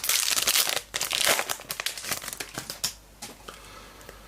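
Trading-card pack wrapper crinkling and tearing as a pack is opened, dense and crackly for about three seconds, then fading to a few faint rustles.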